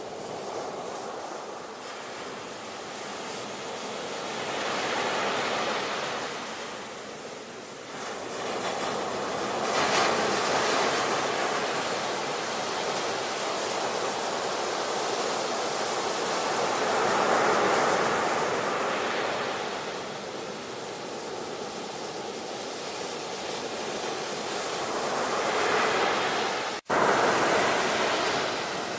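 Ocean waves breaking and washing in, the surf swelling and easing every several seconds. Near the end it cuts out for an instant and comes back louder.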